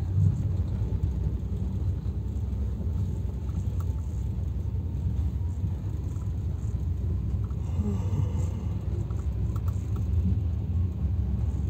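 Steady low rumble inside a passenger train carriage as the train runs along.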